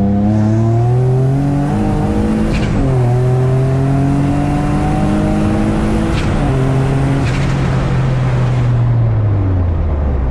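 Turbocharged Nissan G35's VQ35 V6 accelerating hard, its pitch climbing through several gear changes, with a short sharp sound at two of the shifts. Near the end the revs fall away as the throttle comes off.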